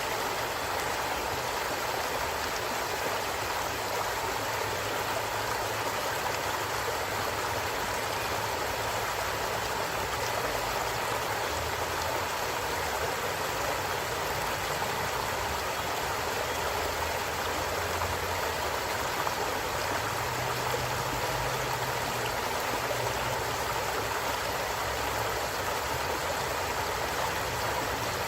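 Flowing stream: water running and splashing over rocks in a steady, unbroken rush.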